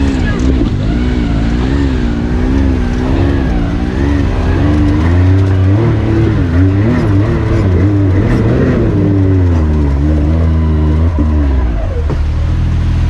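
Side-by-side UTV engine revving up and down under load as the buggy climbs, the throttle repeatedly opened and eased.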